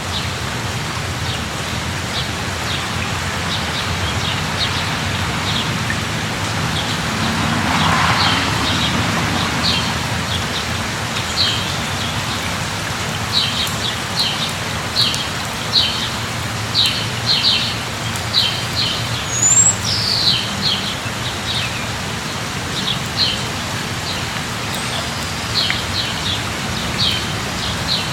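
Steady rain falling, with a small bird chirping in short, high, repeated notes through it, more often in the second half. A brief swell of rushing noise rises and fades about eight seconds in.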